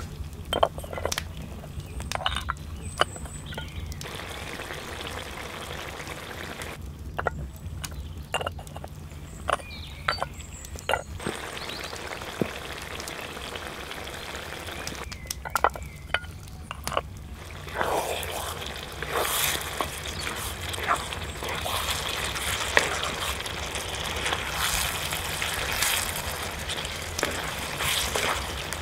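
Lamb offal frying on a sadj, an iron griddle, sizzling steadily, with sharp clicks of a utensil stirring and scraping against the iron. The sizzle grows louder and busier in the last third.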